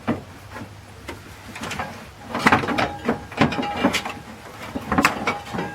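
Clattering of hand work on parts and tools: a series of irregular knocks and clicks, busiest in the middle, with a few short metallic rings.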